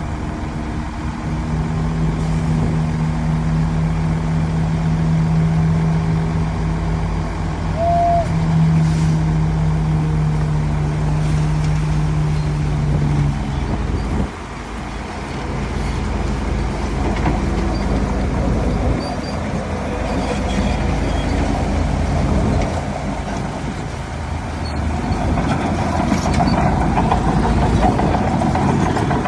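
Heavy diesel earthmoving machinery running: a steady engine drone that cuts off abruptly about halfway through, followed by a rougher, noisier working sound that grows louder near the end.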